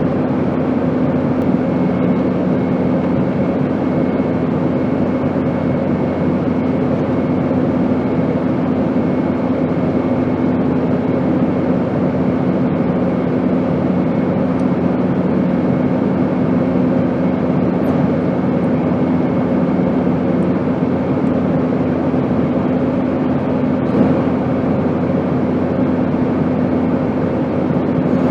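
Airplane noise, a steady drone: an even rushing sound with a constant low hum, unchanging in pitch and level.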